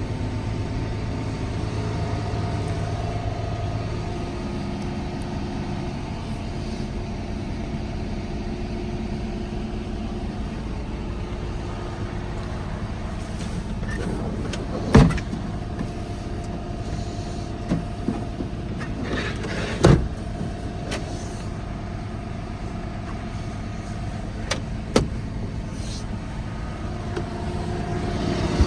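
Diesel engine of a Volvo FH 280 truck idling steadily. A few sharp knocks cut through it, the loudest about halfway through and again a few seconds later.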